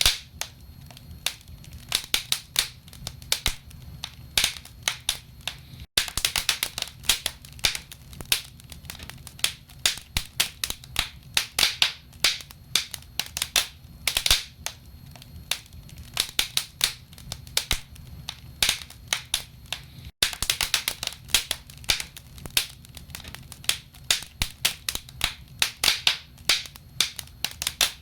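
Wood logs burning in a fireplace, crackling with irregular sharp pops and snaps over a low steady rumble. The sound breaks off for an instant twice, about six and about twenty seconds in.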